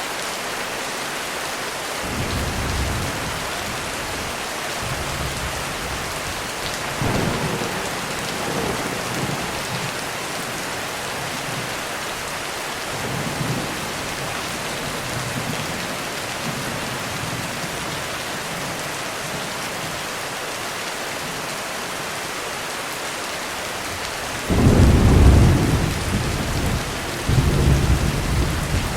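Heavy rain on a roof falling steadily, with thunder rumbling low several times. The loudest rumble comes near the end, followed closely by another.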